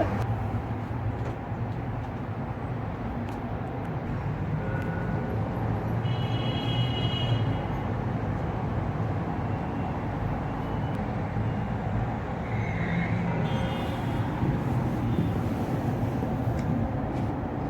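Steady city traffic noise with a low engine hum, with faint brief high-pitched tones about six and thirteen seconds in.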